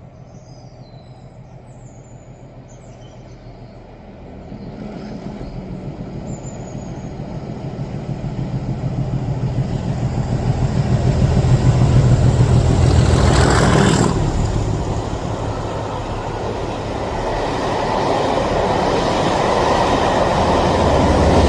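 Mainline diesel locomotive with an English Electric engine hauling a passenger railtour, the engine growing steadily louder as it approaches and loudest as it passes about twelve to fourteen seconds in, then swelling again near the end. Birds chirp faintly in the first few seconds.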